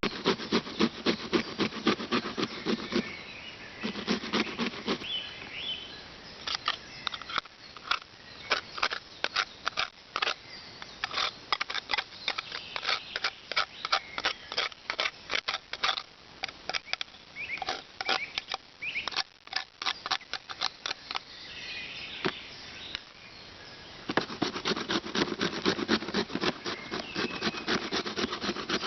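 Knife chopping on a wooden cutting board: a long run of sharp, uneven taps, several a second, with a couple of short pauses. Birds chirp faintly now and then.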